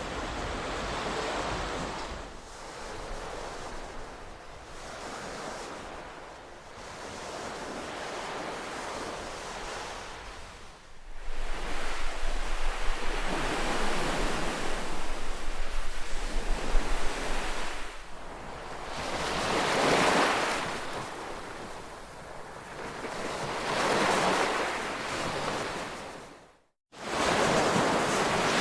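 Ocean surf: waves wash in and draw back, swelling and fading every few seconds. A louder stretch in the middle carries a low rumble of wind on the microphone. The sound cuts out for a split second near the end before the waves resume.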